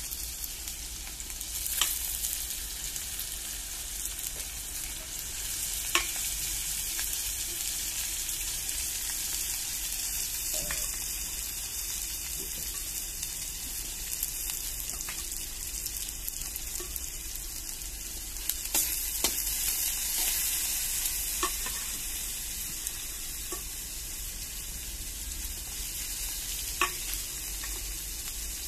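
Chicken feet sizzling in soy sauce in a wok: a steady frying hiss, with a few sharp clicks scattered through it.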